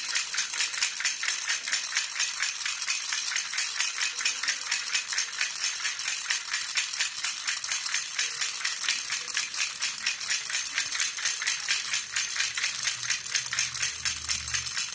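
Jhunjhuna, an Indian baby rattle, shaken steadily and quickly, a continuous bright jingling of rapid, even strokes. A faint low hum joins in near the end.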